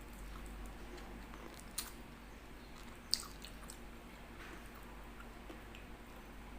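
Close-miked mouth sounds of a person eating chicken: faint chewing and biting, with two sharp clicks about two and three seconds in.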